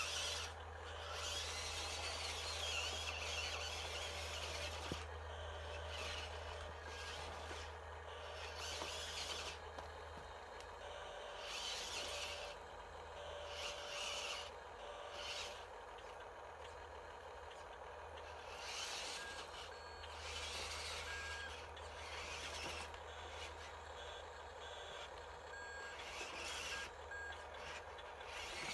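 Radio-controlled dump truck's small electric motors and gearboxes whining in repeated short bursts, with groups of short electronic beeps like reversing beeps.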